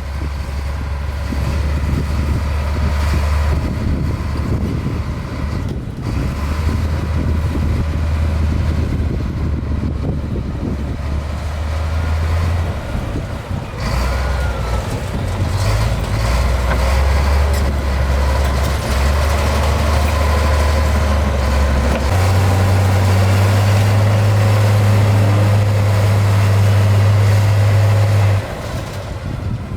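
Heavy diesel engine of earthmoving machinery running under varying throttle, its pitch shifting in steps. It rises and holds higher for several seconds near the end, then drops off suddenly.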